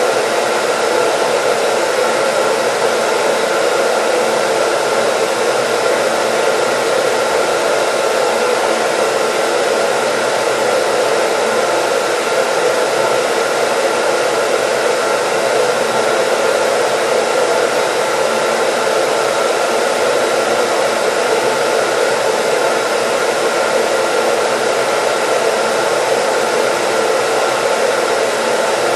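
Hair dryer running steadily: an even airy rush with a faint motor whine, unchanging in level and pitch.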